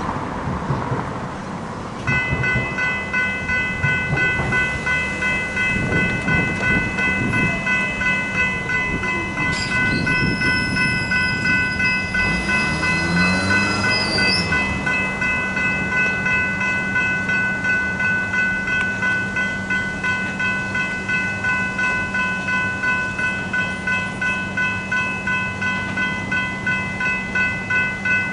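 Railway level crossing warning bells start about two seconds in and ring at a fast, even beat. Under them a train passes, and there is a high metallic squeal from about ten to fourteen seconds in.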